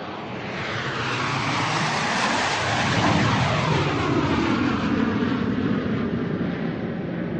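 Airplane flying overhead: its rushing engine noise swells up, is loudest about three seconds in, then slowly fades. A falling, sweeping whoosh runs through it as the plane passes.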